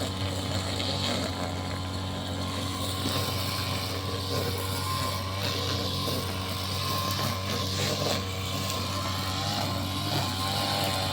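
Engine of a grass-cutting machine running steadily at constant speed.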